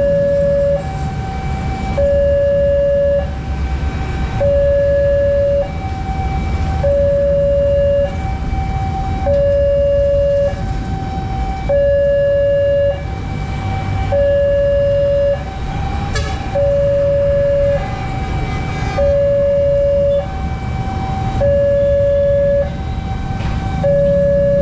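Railroad crossing's electric warning bell sounding a repeating two-tone alarm, a longer low note then a shorter higher note about every two seconds, signalling that a train is approaching. A steady low rumble of traffic runs beneath it.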